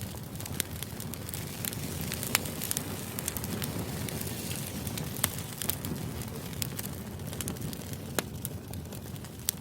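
Crackling fire ambience: a steady low rush with sharp pops and crackles scattered irregularly through it.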